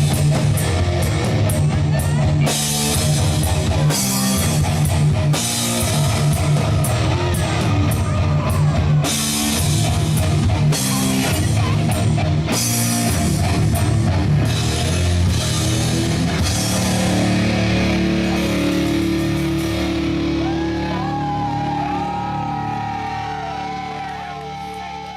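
Rock band playing a song with drum kit and guitars. About two-thirds of the way through the drums stop and the band holds a final chord while a lead guitar plays bending notes, the sound fading as the song ends.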